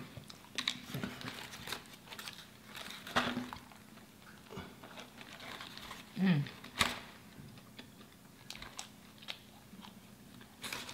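Close-up eating sounds: a person biting into and chewing a chicken sandwich, with irregular wet clicks and small crunches. A brief low vocal sound comes about six seconds in.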